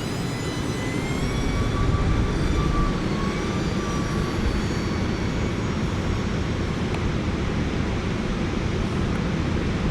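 Electric motor and propeller of a TBS Chupito RC plane whining in flight. The pitch wavers, then fades about halfway through as the plane moves off, over a heavy low rumble of wind on the microphone.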